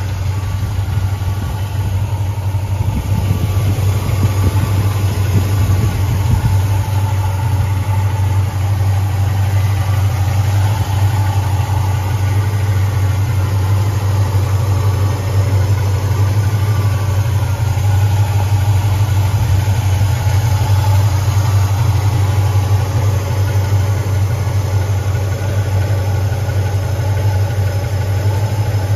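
Chevrolet 396 big-block V8, fitted with headers and dual exhaust, idling steadily.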